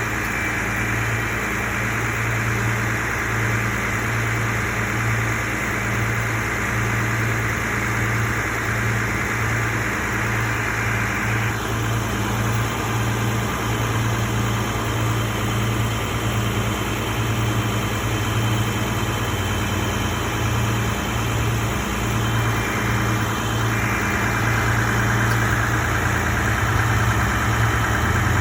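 A vehicle engine idling steadily, a low even hum that pulses slightly, with a small change in the low note near the end.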